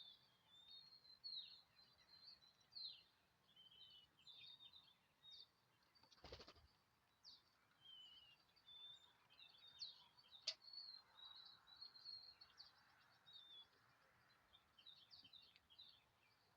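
Small songbirds chirping and twittering in quick, high, overlapping calls. A brief rustle-like noise comes about six seconds in, and a sharp click a little after ten seconds.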